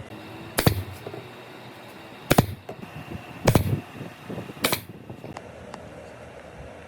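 Four sharp knocks, about a second apart, some with a brief ring after them, over a steady hum.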